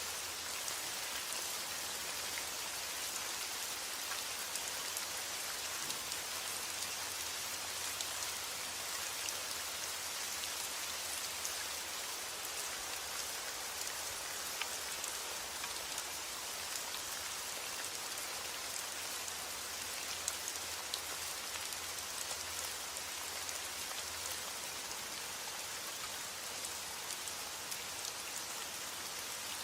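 Steady heavy rain falling on a roof, with scattered sharp ticks of individual drops.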